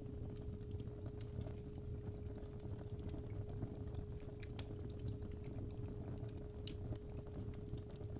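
A steady 417 Hz tone held over the fireplace's wood fire: a low rumble with frequent small, irregular crackles and pops.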